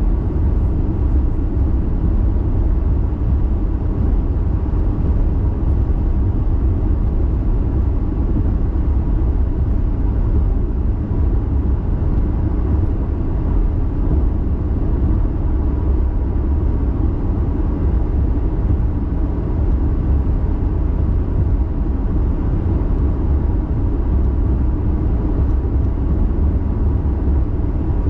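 Car driving: a steady low rumble of engine and road noise, unchanging throughout.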